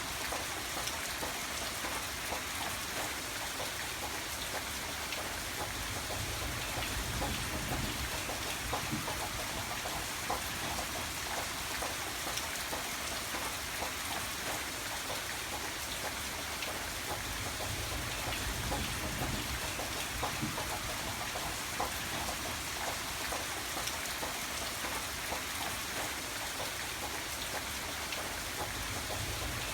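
Steady rain falling, with many individual drops pattering on a surface. A low rumble swells and fades a few times underneath.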